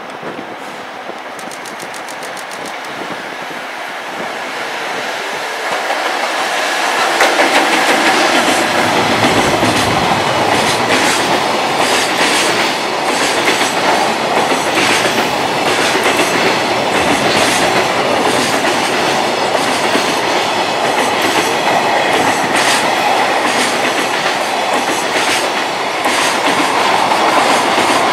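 A freight train approaching and growing louder over the first several seconds, then passing at high speed, its wagons' wheels clattering over the rail joints.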